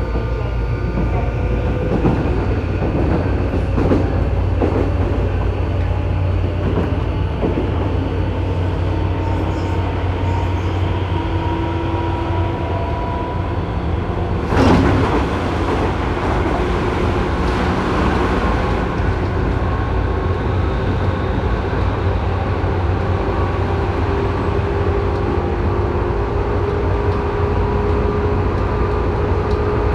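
Tobu 9000-series train running, heard from inside motor car MoHa 9204 above its armature chopper control: steady chopper and motor tones, one of them slowly rising, which the uploader says carry an abnormal chopper noise on this car. Wheels click over rail joints in the first seconds, and there is one sudden loud noisy burst about halfway through.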